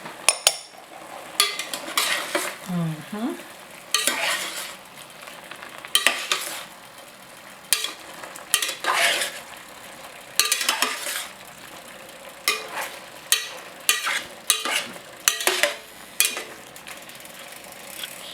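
Chicken pieces frying in a pan with soy sauce, sizzling steadily, while a utensil stirs and turns them with repeated scrapes and knocks against the pan.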